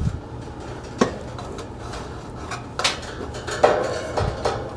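A few separate light clicks and knocks from hands working motor wires and a plastic cable tie against a sheet-metal HVAC cabinet.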